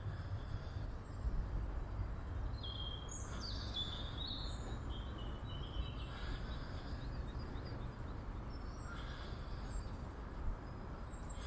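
Several songbirds chirping and calling in the trees, many short high calls, over a steady low rumble.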